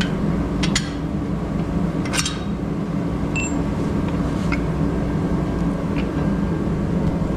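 A steady low machine hum, with a few scattered clicks and knocks and a short high beep about three and a half seconds in.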